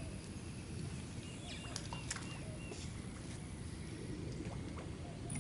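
Quiet lakeside outdoor ambience: a steady low rumble with a few faint, short high chirps and light clicks scattered through.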